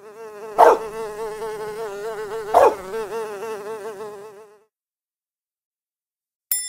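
Cartoon housefly buzzing sound effect: a steady buzz with a wavering pitch that lasts about four and a half seconds, with two louder accents about half a second and two and a half seconds in, as the fly zooms off.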